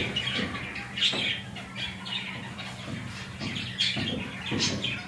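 Small birds chirping repeatedly in short, high calls.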